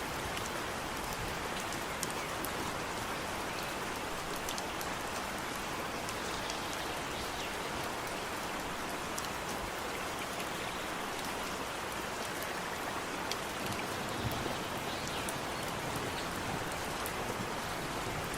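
Steady rain falling, a continuous hiss with many separate drop ticks heard through it.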